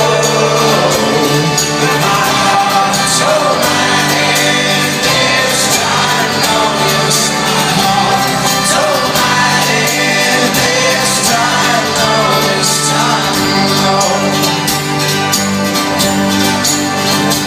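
A live folk-rock band playing loudly, with singing over the steady band, recorded from within an arena audience.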